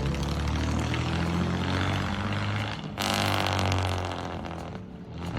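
A car engine running, with the sound changing abruptly about three seconds in, where one recording cuts to another.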